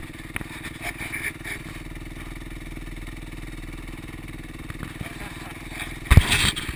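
Motocross bike engine running at a steady pitch, with a short loud thump near the end.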